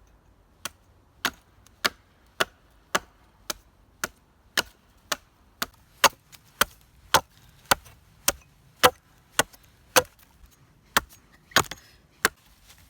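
Wood being chopped with steady, evenly paced blows, about twenty strikes at roughly two a second.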